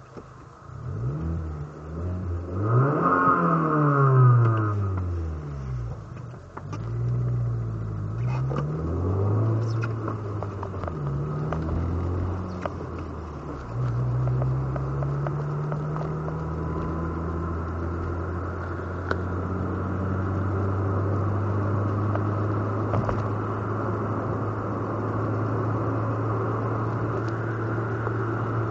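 Volkswagen Mk4 Golf 2.0-litre four-cylinder with a 2.5-inch custom exhaust (two hi-flow resonators and a Maximus Storm muffler), heard from inside the cabin. The engine revs up and down several times in the first half, then runs at a steady pitch from about halfway.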